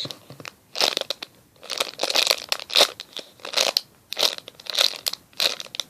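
A homemade squishy toy being squeezed by hand about eight times in a row, each squeeze a short crinkly rustle.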